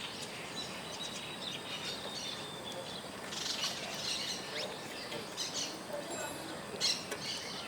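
Birds chirping: short, high, scattered chirps, thicker about three to four and a half seconds in and again near the end, over a steady outdoor hiss.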